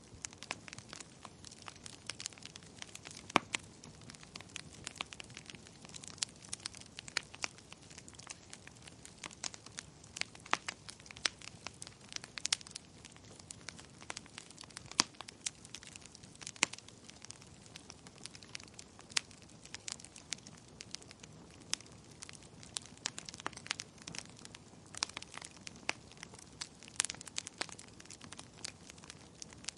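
Wood fire burning in a fireplace: a steady low rush of flames with dense, irregular crackles and sharp pops from the burning logs.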